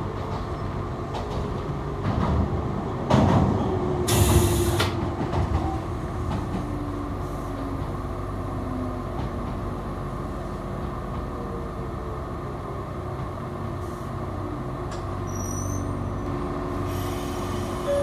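Echizen Railway electric railcar running, heard from inside the carriage: a steady rumble of wheels on the track, with a loud clatter about three seconds in and a short burst of hiss a second later.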